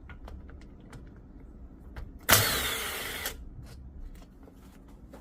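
Light clicks and knocks of hand tools on engine parts during disassembly. About two seconds in there is a sudden loud hissing burst that fades out over about a second.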